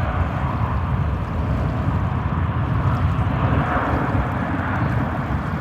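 Steady rumble and hiss of an airliner cabin with the jet engines running, heard from inside the aircraft.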